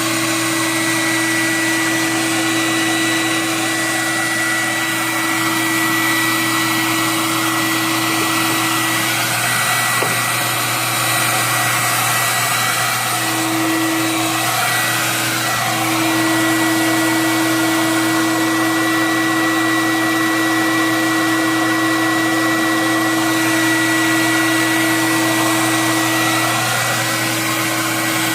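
Hot-air popcorn popper roasting coffee beans, its fan motor blowing with a steady whir, together with an inline ventilation fan drawing the smoke out.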